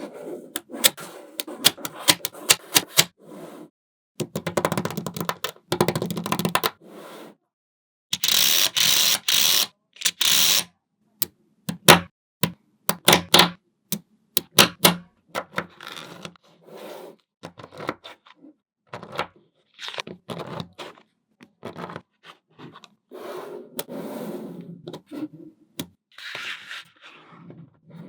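Small magnetic balls clicking as they snap together one after another, with a few longer stretches of dense clattering as groups of balls are moved against each other.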